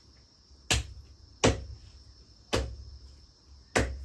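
Four heavy chops of a knife cutting chicken meat on a board, unevenly spaced, over the steady chirping of crickets.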